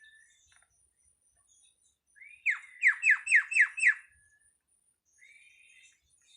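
Starling (jalak) calling: a rising whistled note, then a quick run of five downward-sweeping notes at about four a second, and a fainter rising note near the end.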